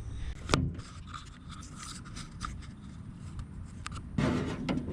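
Handling noise of small hardware parts: a sharp click about half a second in, light ticks and rubbing, then a louder rustling scuffle near the end.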